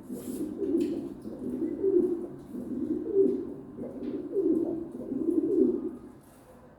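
Pigeon cooing: a string of low, repeated coos about one a second, stopping about a second before the end.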